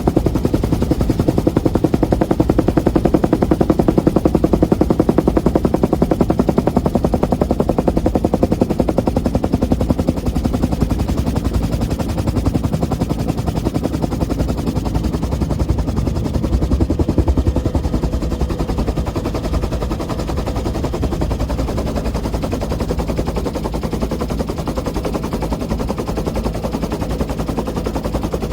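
1966 Bell UH-1 'Huey' helicopter in flight, heard from on board: the rapid, steady thumping of its two-blade main rotor over the turbine's running.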